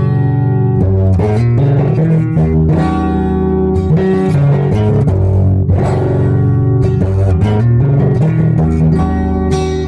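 Guitar being played: plucked notes and chords ringing one into the next, with strong low bass notes underneath and the harmony changing every second or so.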